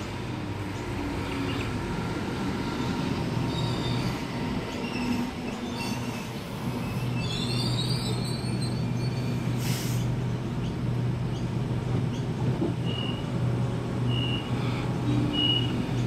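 Sydney Trains Tangara electric train pulling into the platform and stopping, squealing high as it slows over a steady low hum of its running gear. A short hiss of air comes about ten seconds in, and a few short, evenly spaced high beeps sound near the end.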